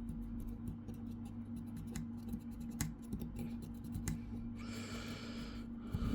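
Light scratching and ticking as the thin metal fins of a laptop heatsink are wiped down by hand, with a longer rubbing stretch near the end, over a steady low hum.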